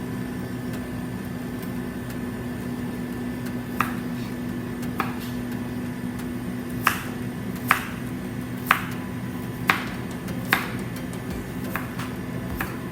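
A knife cutting celery on a cutting board: about nine crisp, sharp cuts at uneven intervals of roughly a second, starting about four seconds in, over a steady low hum.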